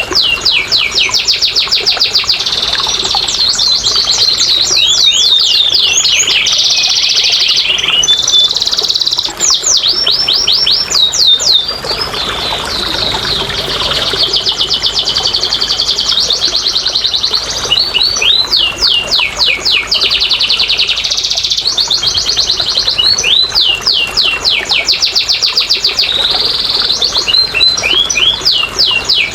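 Domestic canary singing continuously in a long, high-pitched song of fast repeated trills and rolls, one phrase running straight into the next.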